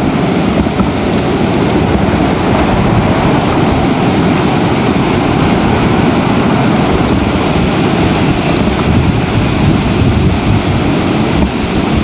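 Very strong storm wind blowing over an outdoor microphone, a loud, steady, dense rush with the deepest part strongest.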